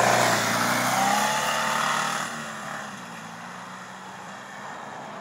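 Fiat 126 two-cylinder engine in an off-road buggy, revving up and down, then dropping back about two seconds in to run quieter and steadier.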